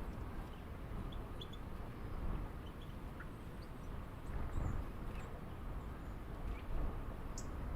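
Scattered short, high bird chirps over a steady low rumble of outdoor background noise, with one sharper chirp near the end.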